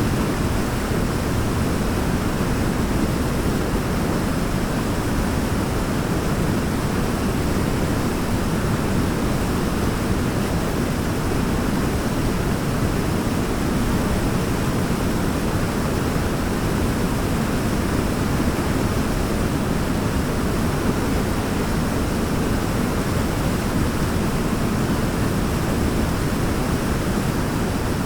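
Waterfall rushing: a steady, unbroken noise of falling water, heaviest in the low range and even in level throughout.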